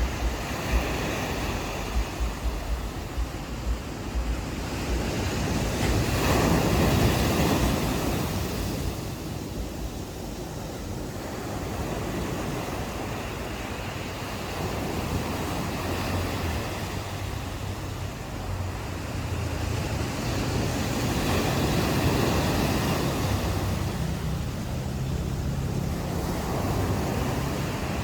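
Ocean waves washing onto a beach: a steady surf rush that swells twice, about six seconds in and again near twenty seconds in. Wind buffets the microphone in the first moment, and a low steady hum comes in near the end.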